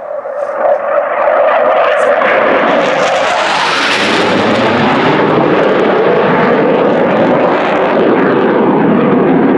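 Airplane passing overhead: a loud engine roar that swells over the first seconds, is fullest about four seconds in, then holds loud and steady.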